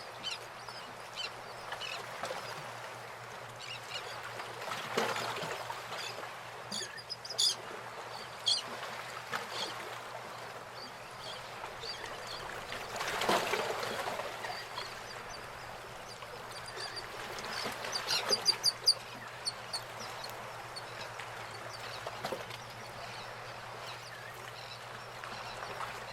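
Birds calling in short, high chirping notes that come in quick runs twice, over a steady hiss.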